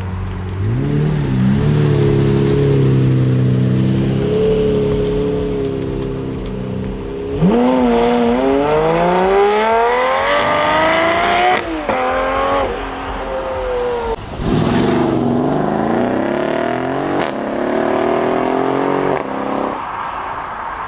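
High-performance car engines revving and accelerating hard away one after another. An engine is held at raised revs for the first few seconds; about seven seconds in a car pulls away with its pitch climbing and dropping at each upshift, and a second one does the same from about fourteen seconds in.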